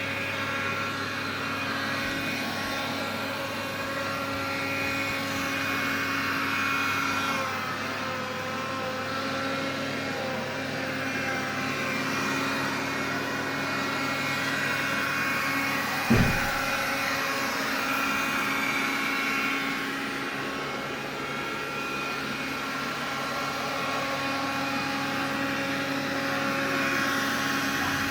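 Xiaomi vacuum cleaner running, a steady whine from its motor and fan made of several held tones. There is one short knock about 16 seconds in. It is the unwanted extra noise its owner is checking.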